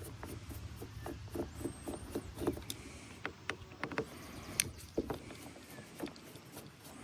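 Light, scattered clicks and taps of small metal parts and hand tools as a carburetor is taken apart by hand.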